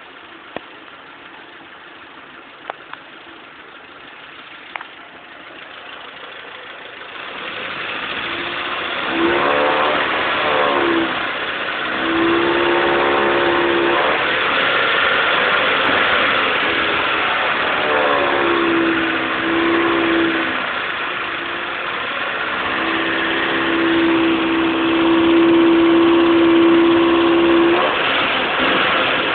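Porsche 924 engine: a few clicks in the first seconds, then the revs are raised and held several times, and at each hold a steady, humming tone sounds over the engine. This is the strange noise that comes in at about 2000 rpm.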